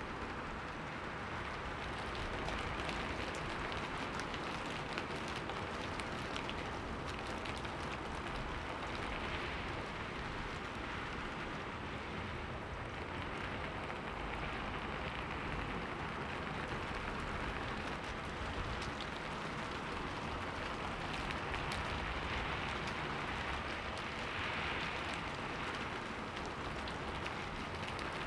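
Steady rain against a window pane: an even hiss of rainfall with many small drop ticks.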